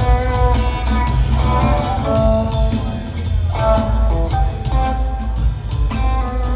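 Live rock trio playing an instrumental passage: guitar picking a melodic line of short notes over bass and drum kit, recorded on a phone in the audience.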